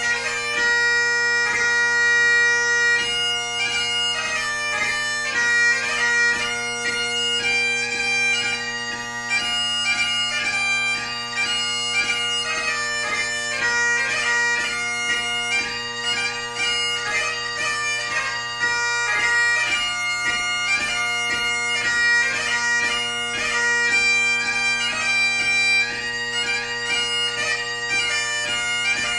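Solo Great Highland bagpipe playing a light-music (ceol beag) tune: a quick, ornamented chanter melody over steady drones.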